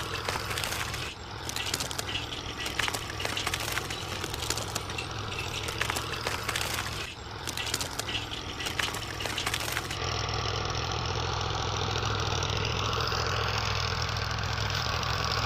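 Small motor running in a DIY model machine, with dense clicking and rattling for most of the stretch; about two-thirds through it cuts abruptly to a steadier, even hum.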